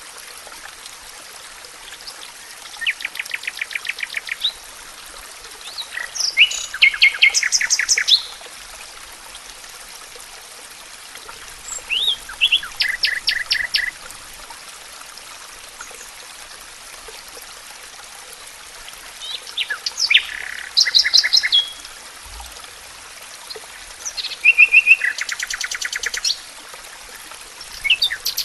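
A songbird singing short, rapid trilled phrases, about six of them, each lasting one to two seconds with pauses of a few seconds between, over a steady background hiss.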